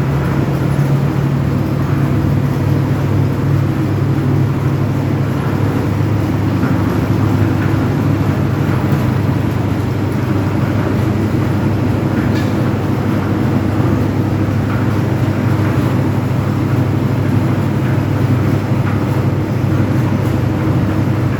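Diesel engine of a concrete mixer running steadily at a constant speed, with a dense, even low chugging.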